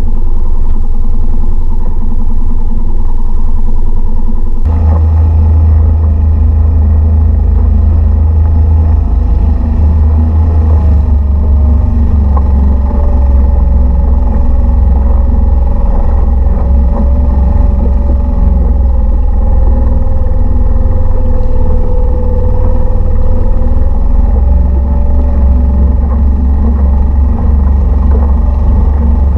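Small Mercury 3.5 hp outboard motor running steadily, pushing a kayak. About five seconds in it gets louder and fuller and holds there.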